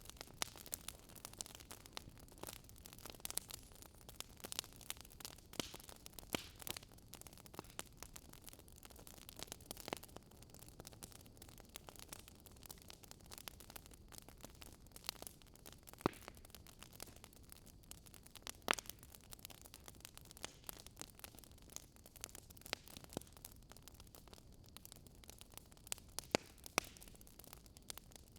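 Wood fire burning in a fireplace: faint irregular crackling and popping of the logs over a low steady hiss of the flames, with a couple of sharper pops in the middle.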